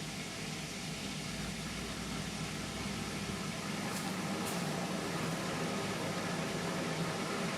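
Indesit MTWC71252WUK washing machine running mid-cycle: a steady motor hum with noise, growing slightly louder partway through, and two short clicks about four seconds in.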